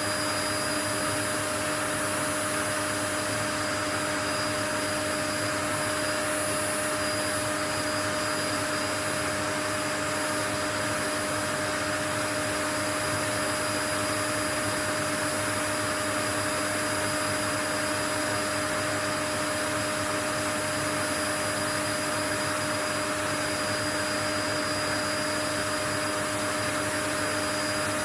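Steady white noise: a constant, unchanging rushing hiss with a few faint steady tones running through it, like the sound of a running vacuum cleaner or similar motor-driven appliance.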